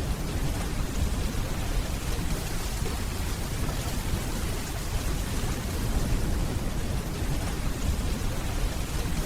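Steady rainfall hissing on a hard surface, with a low, continuous rumble of distant thunder underneath.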